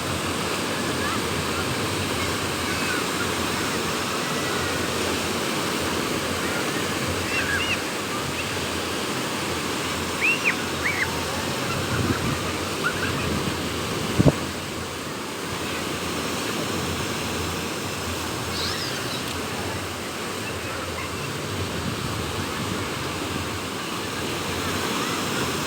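Sea surf washing onto the beach with wind, a steady rush of water noise. A few short high chirps come through in the middle, along with one brief click.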